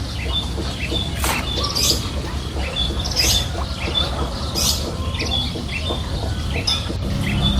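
Animal calls outdoors: short high chirps repeating throughout, with a few louder squawks, over a steady low rumble.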